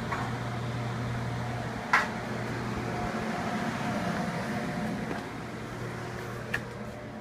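A steady low machine hum, with a sharp click about two seconds in and a fainter click near the end.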